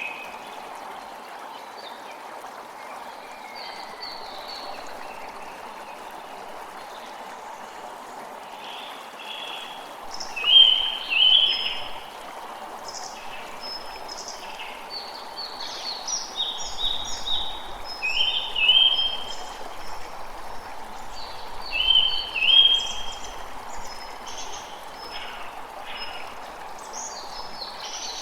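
Creek water running steadily, with small birds chirping in short repeated phrases above it, the loudest calls about ten, eighteen and twenty-two seconds in.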